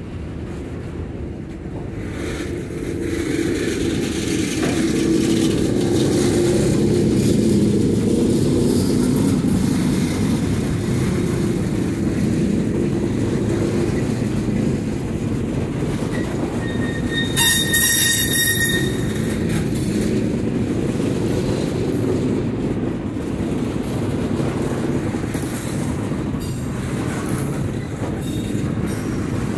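Freight cars of a long train rolling past close by: a steady rumble of steel wheels on rail with some clatter, building over the first few seconds. About two-thirds of the way through comes one brief, high-pitched wheel squeal.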